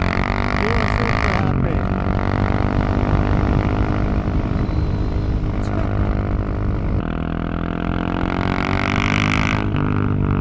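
Husqvarna 701 supermoto's single-cylinder four-stroke engine under way, the exhaust note rising and falling with the throttle and changing abruptly a couple of times.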